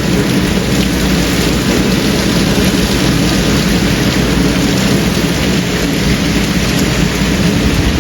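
Heavy rain pouring in a severe thunderstorm, with strong gusting wind rumbling on the microphone as a steady, loud rushing.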